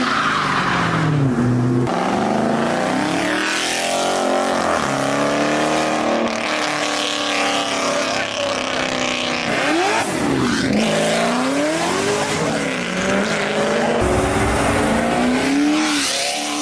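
Car engine revving hard, its pitch climbing and dropping again and again, over a rushing noise.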